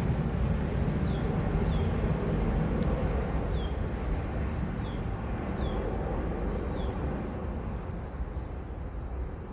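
Deep, steady rumble of a Rolls-Royce Trent 900-powered Airbus A380 climbing away after takeoff, slowly fading as it recedes.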